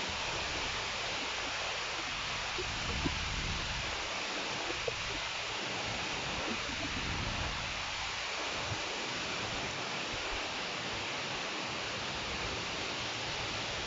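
Heavy rain pouring steadily, a dense even hiss, with a few faint ticks of drops striking nearby.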